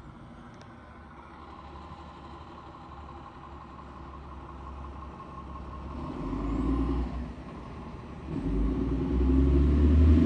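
Motor vehicle engine running low, then revved briefly about six seconds in and again from about eight seconds, louder and held the second time.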